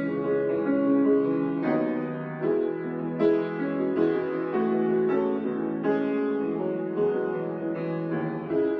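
Slow instrumental piano music, held chords changing about once a second.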